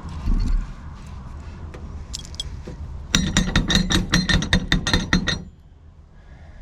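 A quick run of about ten sharp metallic clicks with a ringing tone, roughly four a second, from metal fittings or a tool being worked during plumbing repair; it starts about three seconds in and stops abruptly two seconds later. A dull thump comes just before, near the start.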